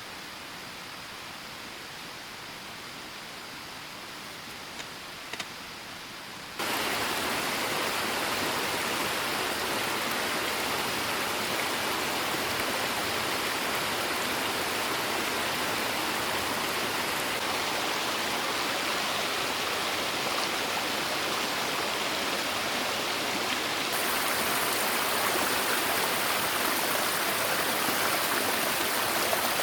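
Steady rushing water, a continuous even hiss like a waterfall or fast stream, which jumps suddenly louder about six and a half seconds in and again a little louder near the end. Two faint ticks about five seconds in.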